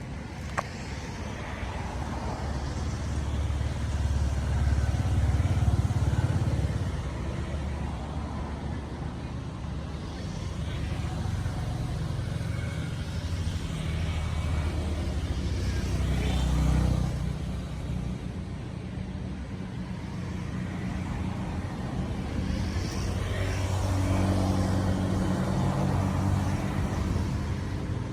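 Motor vehicles passing on a road, their engine and road noise swelling and fading three times, with a sharp click about half a second in.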